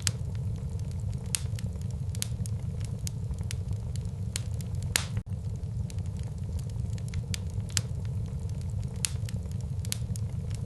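Wood fire burning in a fireplace: a steady low rumble of flames with frequent irregular crackles and sharp pops, one louder crack about five seconds in.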